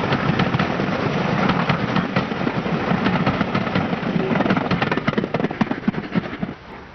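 Steam-hauled passenger train passing and receding on the climb, a dense, irregular clatter of coach wheels over the rail joints. The sound cuts off abruptly near the end.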